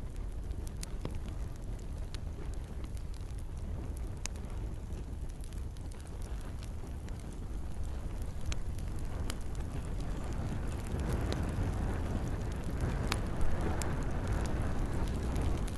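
Campfire crackling, with scattered sharp pops over a steady low rumble and the hiss of gentle rain; the hiss swells over the second half, and one pop about 13 seconds in is the loudest.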